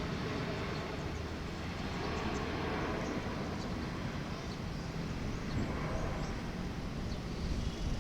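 Airbus A400M Atlas turboprop engines heard from a distance as a steady, noisy rumble.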